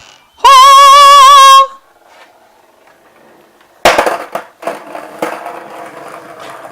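A skateboard is dropped onto the garage floor with a sharp crack and rolls on with rough wheel noise and small knocks. Before it there is a loud, high, wavering tone lasting about a second.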